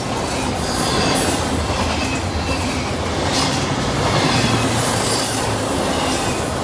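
Double-stack intermodal well cars rolling past close by: a steady, loud rumble of steel wheels on the rails.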